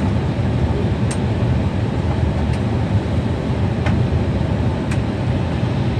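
Steady low rumble of a jet airliner's engines, holding an even level, with a few faint ticks on top.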